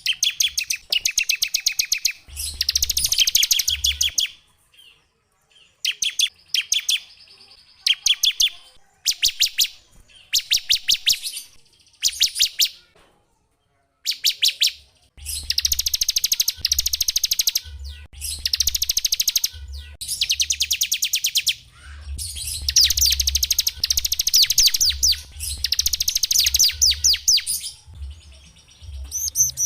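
Small songbird singing fast trills of rapidly repeated high notes, in bursts of one to two seconds with short pauses between them. The bursts grow longer and more continuous in the second half.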